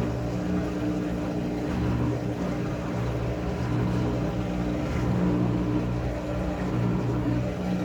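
Washing machine running: a steady motor hum with several held low tones.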